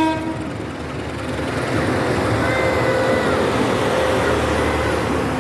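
CC 201 diesel-electric locomotive hauling a train out of the station: a steady low engine and rolling rumble. A loud pitched note cuts off within the first half second.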